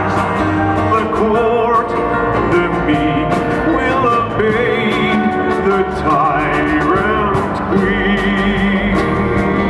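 Live acoustic rock music: strummed acoustic guitars with a melody line of held, wavering notes, likely singing.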